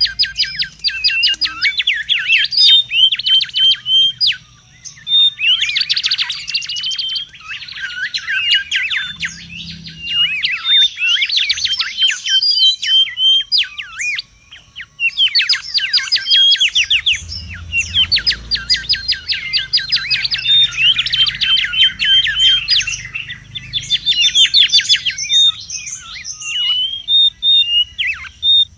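Mangrove whistler (kancilan bakau) calling busily: rapid runs of sharp, high chattering notes in bursts of several seconds, broken by short pauses. A faint low rumble sits under parts of it.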